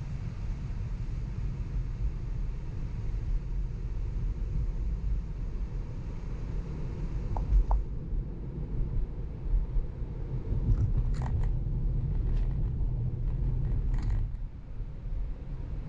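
Road and tyre noise inside a moving Tesla's cabin: a steady low rumble with a hiss that drops away about halfway through. Two short ticks come near the middle, and a few sharp clicks follow later.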